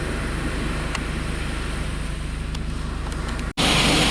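Toyota Tercel, running with gear oil in place of motor oil, heard as a steady low engine drone with road and cabin noise. About three and a half seconds in the sound cuts abruptly to a louder steady rushing noise.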